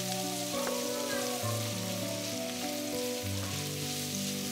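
Sliced onions sizzling as they fry in oil in a pan, stirred with a wooden spatula. Soft background music with held notes plays underneath.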